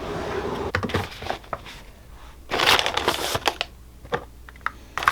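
Paper and packaging rustling and crinkling as craft supplies are pulled out and handled, with a louder crinkling burst about halfway through and a few small knocks near the end.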